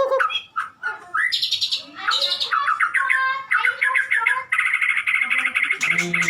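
White-rumped shama singing: a run of varied whistled phrases and fast trills, turning into a long, rapid, buzzing trill in the last couple of seconds. A lower, falling sound comes in underneath near the end.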